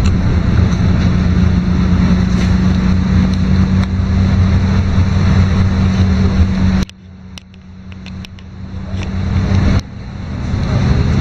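LiAZ-5292.22 city bus riding along, heard from inside: a loud, steady drone of engine and drivetrain with a constant hum and road rumble. About seven seconds in, the noise drops abruptly and stays much quieter, slowly rising for about three seconds, before it suddenly returns to full level.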